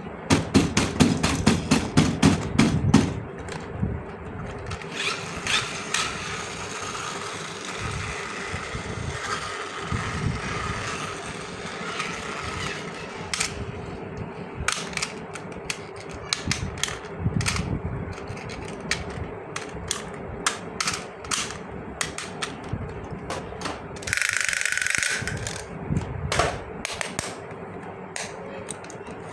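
Plastic toy parts and packaging being handled: a quick run of clicks at first, then scratchy rustling, then scattered sharp clicks, with a brief hissing rustle near the end.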